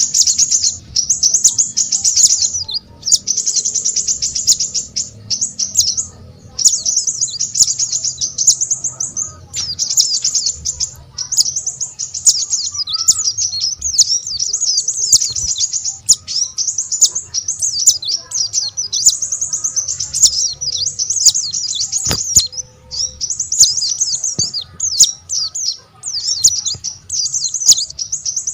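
Small songbird singing a fast, high, twittering song in phrases of one to two seconds separated by short breaks.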